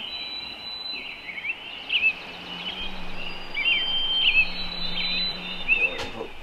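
Forest birds chirping and singing: many short, quickly bending notes over a steady outdoor hiss. A single sharp click near the end.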